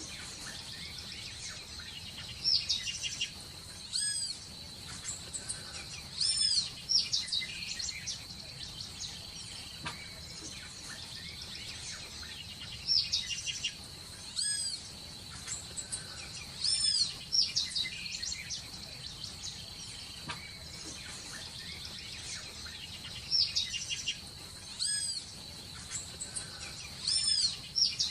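Birds calling in short clusters of bright, pitch-bending chirps, the same sequence coming back about every ten seconds. A steady high-pitched whine runs underneath.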